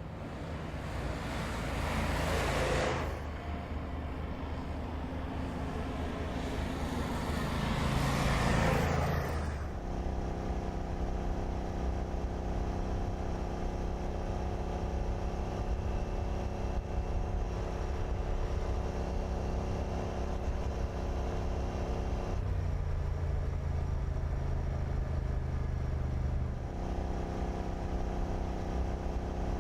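Muscle car engine noise: two loud swells early on, like revs or pass-bys, then a steady engine drone that drops lower in pitch for about four seconds near the end before settling back.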